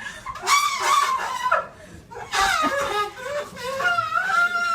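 High-pitched human voices laughing and squealing in three bursts, each about a second long.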